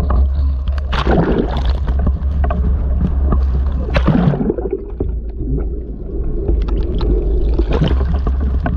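Strong wind, around 40 mph, buffeting the microphone as a heavy low rumble with scattered rattles and clicks. It eases for a couple of seconds about halfway through, then gusts back up.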